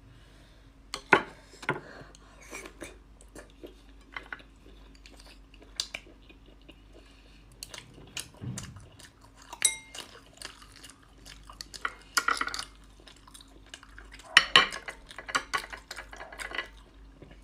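Tableware clattering: utensils and dishes clinking and tapping in irregular clicks, with a brief ringing ping about ten seconds in.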